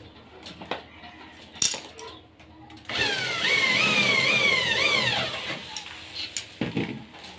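A motor revving up and down four or five times in quick succession for about two and a half seconds, starting about three seconds in, amid scattered light knocks and clicks.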